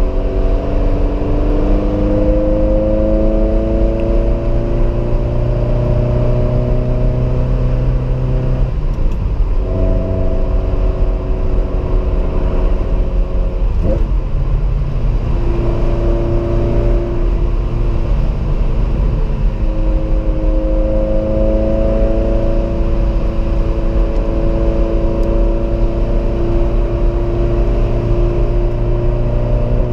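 Ferrari 328 GTS's 3.2-litre V8 heard from inside the cabin, running under load on the road, its note climbing slowly in pitch and breaking off briefly about nine, fourteen and nineteen seconds in as the gears change. The rest of the time it holds a steady cruising note over road rumble.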